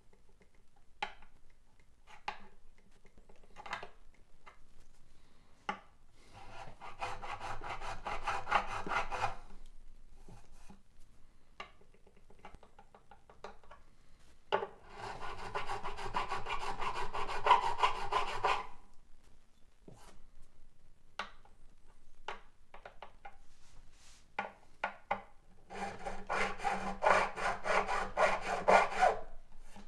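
A fret file scraping back and forth across a high fret on an acoustic guitar's fretboard, in three spells of quick strokes lasting three or four seconds each, to bring down a fret that rocks. Light clicks and taps come between the spells.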